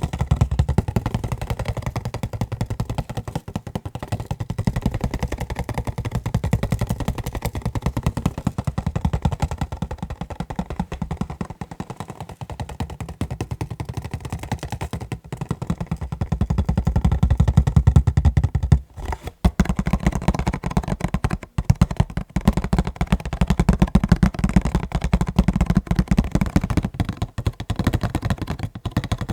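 Fast tapping on McDonald's meal packaging: a dense run of many quick taps a second with a deep, thudding body, broken by short pauses about 19 and 21 seconds in.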